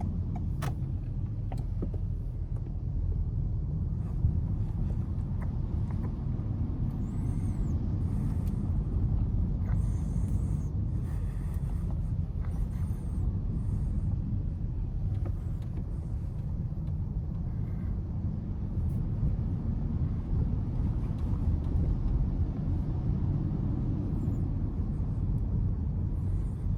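Car driving through city traffic: a steady low rumble of engine and tyre road noise.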